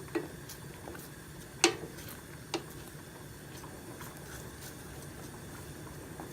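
Stirring utensil knocking against a pot while thick gravy is stirred: three sharp knocks, the loudest about a second and a half in, with lighter taps in between.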